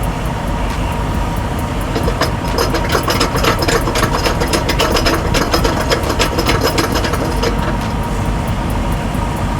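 Truck engine running steadily, with a fast, dense clicking rattle over it from about two seconds in until about seven and a half seconds.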